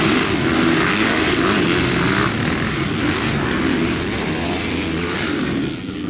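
Motocross bike engines running together, a dense buzzing that wavers with the throttle and eases slightly near the end.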